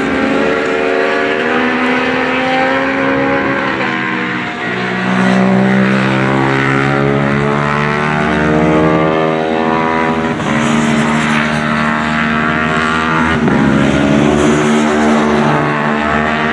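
Racing motorcycles running hard at high revs, their engine notes rising and falling through gear changes. A fresh engine note takes over abruptly several times as bikes pass one after another.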